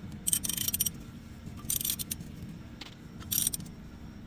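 Hand ratchet wrench clicking in three short bursts as a bolt is snugged down.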